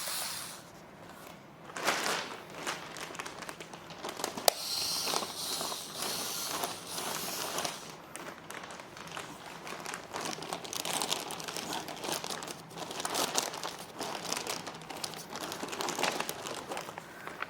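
Packaging crinkling and rustling in irregular bursts as it is handled and pulled about.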